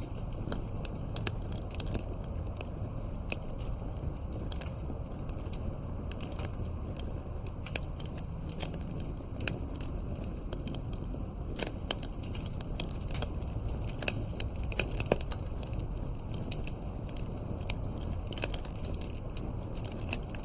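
Campfire burning, with a steady low rumble of flames and irregular sharp crackles and pops of burning wood, a few louder ones about two-thirds of the way through.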